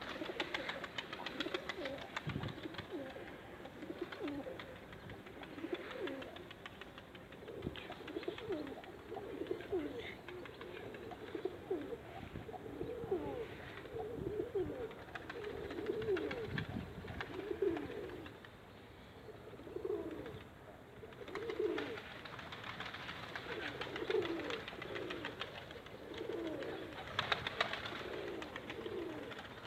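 Pigeons cooing, many coos one after another.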